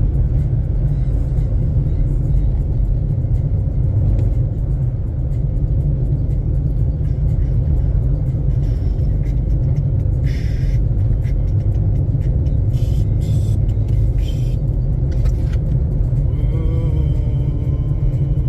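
Car driving on an icy, snow-covered road: a loud, steady low rumble of tyres and engine inside the cabin, with a few brief hissing noises from the tyres on ice and slush in the middle.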